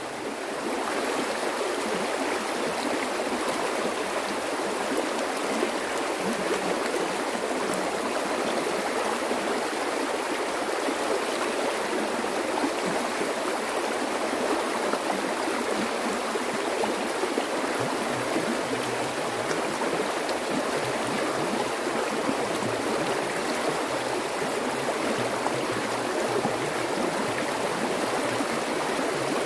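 Flowing water rushing steadily, with no pauses or changes.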